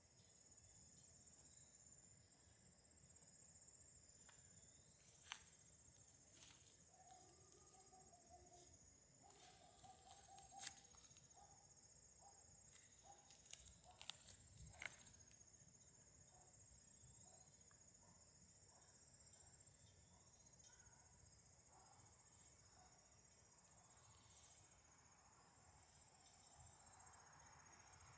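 Crickets chirping in a faint, steady high trill. A scattering of sharp clicks and a few short low notes fall in the middle.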